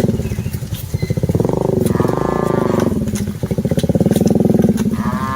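Cattle mooing: several long, low moos follow and overlap one another with no break.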